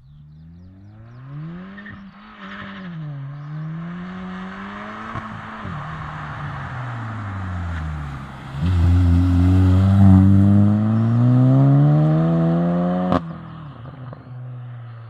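Cupra 290 ST's turbocharged 2.0 four-cylinder engine through a resonator-deleted exhaust with Ultersport mufflers, revving up and down. About nine seconds in it makes a long, loud pull with the pitch climbing steadily, cut off by a sharp crack, and then the revs fall away.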